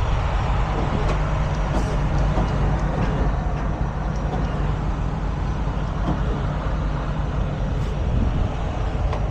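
Tow truck's engine running steadily with a deep, even rumble.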